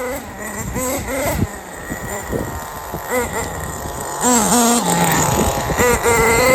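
Small HPI G3.0 3.0cc two-stroke nitro engine in an RC monster truck, revving in short blips, its whine rising and falling. A longer rising rev comes near the end.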